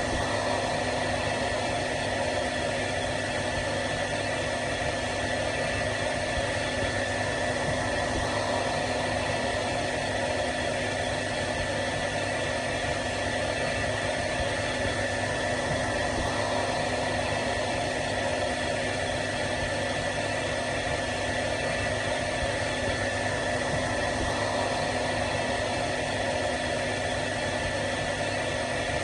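Hair dryer running steadily: an even rushing of air from the fan with a constant motor hum and a faint high whine.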